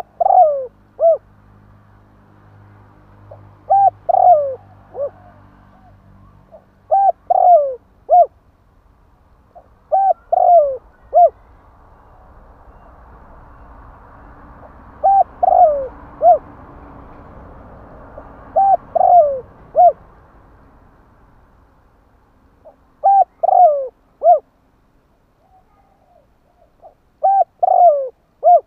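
Spotted dove cooing its territorial call: a short phrase of three or four coo notes, repeated about every three to four seconds, eight times over. A faint hiss swells in the background in the middle.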